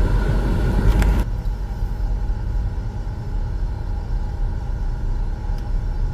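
Car driving with a steady low rumble of engine and road noise; a brighter hiss over it cuts off about a second in.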